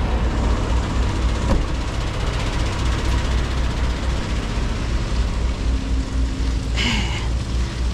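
Diesel semi truck idling: a steady low rumble with a broad hiss over it, and a single sharp click about a second and a half in.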